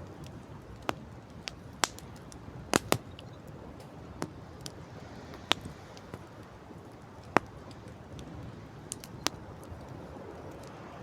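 Campfire crackling, with irregular sharp pops, the loudest a close pair about three seconds in and a single one near seven seconds, over a steady low rush of wind and sea.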